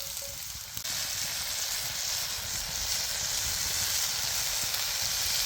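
Food sizzling as it fries in a pan over a campfire, a steady hissing that gets suddenly louder about a second in.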